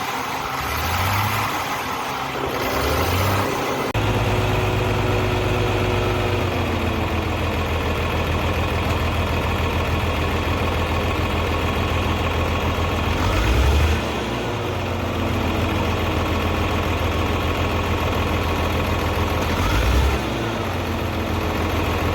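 Car engine idling with a fast, even firing rhythm, blipped briefly twice, about two-thirds of the way in and again near the end. It is presented as an engine making an abnormal noise. The first few seconds hold a slower, pulsing low sound that cuts off abruptly.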